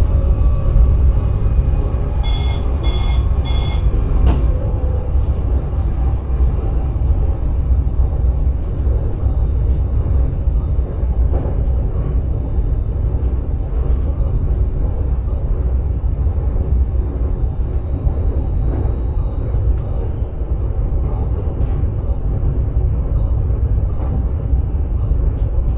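Steady low rumble of an electric Sprinter train running along the line, heard inside the driver's cab. About two seconds in, three short electronic beeps sound, followed by a single sharp click.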